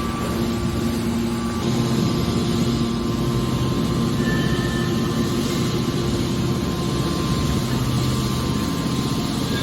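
Scrap metal baler's hydraulic power unit running steadily: a low, even hum under continuous machine noise.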